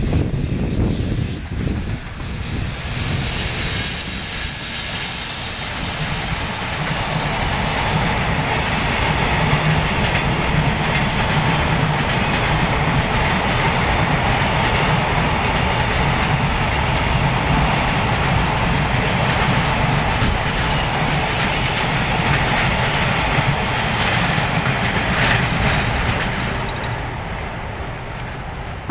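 JR Freight EF210 electric locomotive and its long freight train passing: a steady rumble and rattle of wheels on the rails, with clickety-clack over the rail joints. A high squeal comes in a few seconds in, and the sound fades near the end as the last wagons go by.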